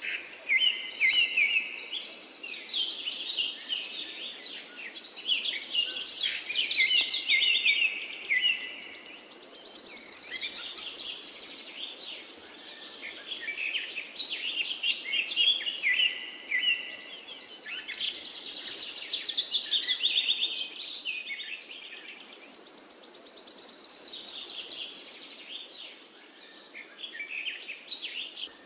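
Many small songbirds chirping and twittering in quick, overlapping trills. The same stretch of birdsong seems to repeat about every 14 seconds, like a looped background recording.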